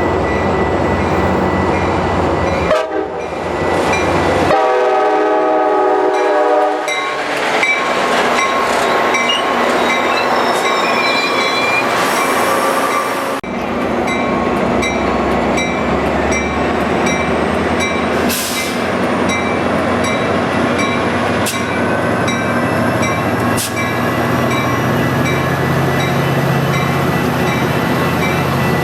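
Metra commuter train sounding its horn in one blast of about two seconds, then passing with a steady rumble and hiss of wheels on the rails.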